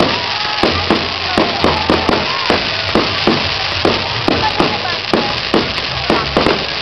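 Fireworks going off: sharp irregular pops, about two to three a second, over a continuous crackling hiss.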